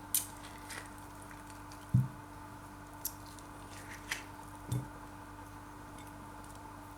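Avocado being handled with kitchen utensils: soft squishing with a few sharp clicks and two dull knocks, the louder knock about two seconds in, over a low steady hum.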